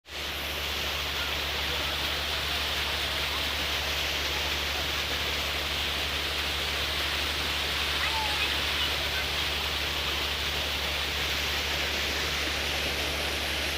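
Steady rushing of water, with a low even hum underneath.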